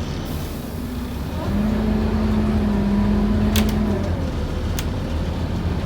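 Scania N230UD double-decker bus's five-cylinder diesel and drivetrain heard from inside the bus, pulling harder about a second and a half in with a steady low whine. A few sharp clicks or rattles come from the bus body.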